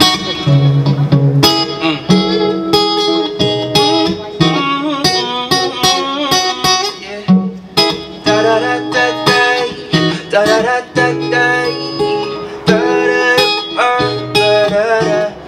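Guitar playing a song's intro live, plucked notes and strummed chords in a steady rhythm.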